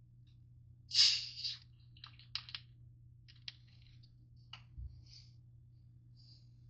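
Handling noises: a brief loud rustling hiss about a second in, then a scatter of light clicks and taps, over a steady low hum.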